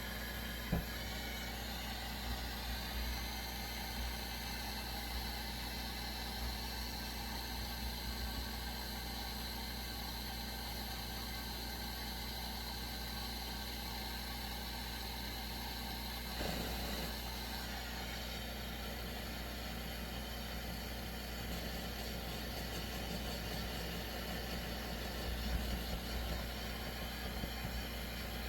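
Pressurized gasoline burner of a Coleman 523 two-burner stove running with a steady rushing hiss. There is one sharp tap just under a second in, and the sound thins out about 16 to 18 seconds in.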